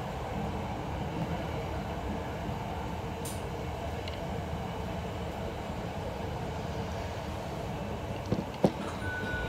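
Hankyu electric commuter train running along the track, heard from inside the front car: a steady rumble of wheels and running gear. Two sharp knocks come near the end.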